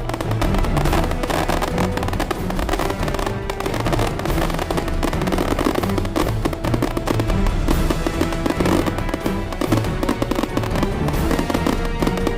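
Firecrackers crackling densely and continuously over loud music with a steady low beat.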